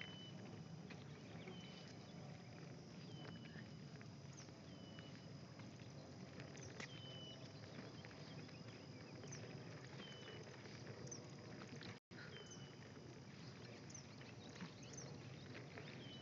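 Faint outdoor ambience: a bird repeating a short high call about every second and a half, with a few faint chirps, over a low steady hiss of wind and handling noise.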